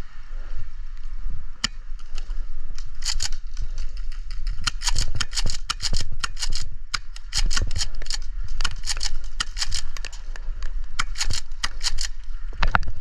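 Airsoft guns firing: sharp cracking shots in several rapid bursts, the densest in the middle and toward the end.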